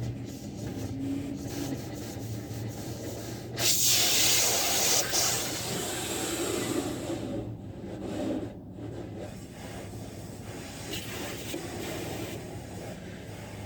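A machine hum, then about three and a half seconds in a loud hiss of high-pressure spray starts suddenly, strongest for a second or two before settling to a lower hiss.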